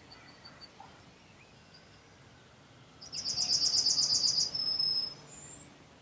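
A bird calling: a rapid trill of about ten high, evenly spaced notes starting about three seconds in and lasting about a second and a half, then a short rising note, over faint scattered chirps.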